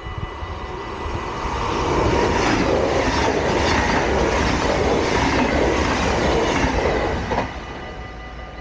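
Dutch yellow double-deck passenger train passing over a level crossing: wheel and rail noise builds over about two seconds, stays loud for about five, then drops off sharply near the end as the last carriage clears. The crossing's warning bell rings steadily throughout.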